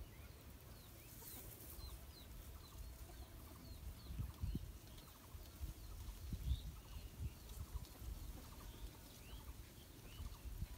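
Birds chirping, many short high calls scattered throughout, over low rumble and occasional soft thuds.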